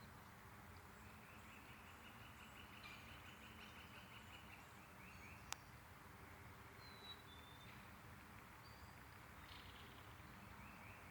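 Faint outdoor ambience with bird calls: a rapid chattering run of chirps starting about a second in and lasting a couple of seconds, then a short high whistle. A single sharp click sounds midway.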